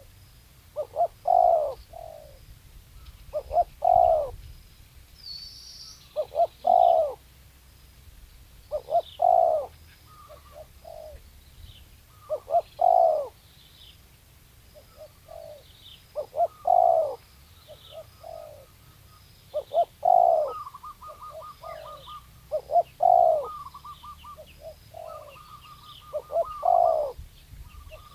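Spotted dove cooing, one phrase of several low coos every three to four seconds. Faint, regular high chirps of another small bird sound above it, and a short buzzy trill comes in a few times in the second half.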